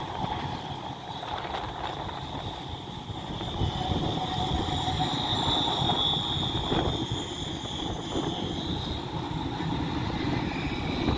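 Tram passing, with a low rumble and a steady high-pitched whine that swells to its loudest about halfway through and then eases off. A few short clicks come in the second half.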